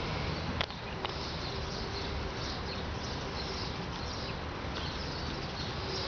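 Birds chirping over a steady background hiss, with a sharp click about half a second in and a fainter one at about a second.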